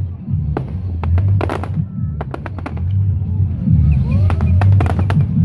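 Fireworks display: a rapid run of sharp bangs and crackles, a short lull with a couple of whistling glides, then another volley of bangs near the end, over a steady low rumble.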